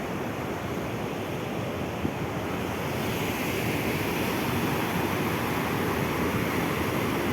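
Swollen river in flood, its water rushing steadily.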